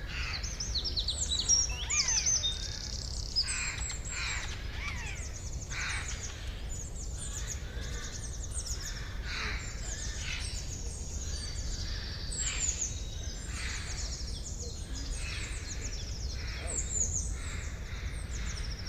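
A dense forest bird chorus: many birds chirping and trilling at once, in quick overlapping high calls, over a steady low rumble.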